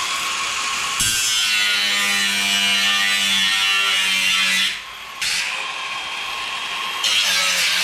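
Power saw cutting a long straight line through a wooden panel, its motor running steadily under load. The saw eases off briefly about five seconds in and then cuts on.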